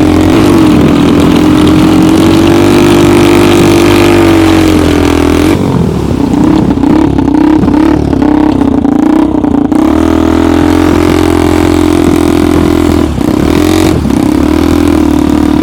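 Homemade snowmobile's engine running hard at high revs. About six seconds in the note drops and wavers for several seconds, then steadies again, with two short dips near the end, as the homemade track bogs down and digs itself into deep snow.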